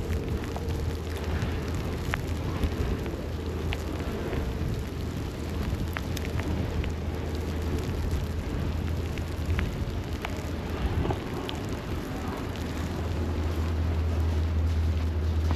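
City street ambience in a snowstorm: a steady hiss with a low rumble underneath and scattered small clicks.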